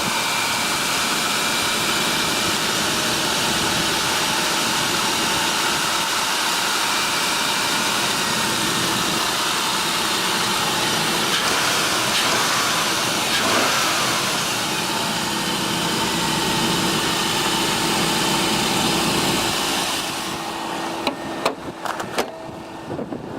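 Ford Taurus's 3.0-liter Vulcan V6 idling steadily just after a cold start, starting fine without stalling. Near the end the engine sound drops away and a few sharp clicks follow.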